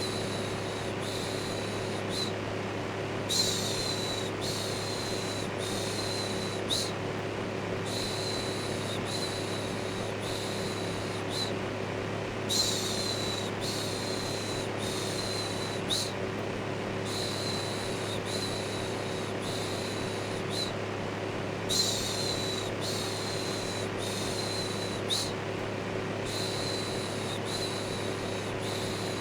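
Steady electric fan hum with a rhythmic 'shhh' shushing laid over it. The shushes come in runs of three or four, each under a second long, with short pauses between runs.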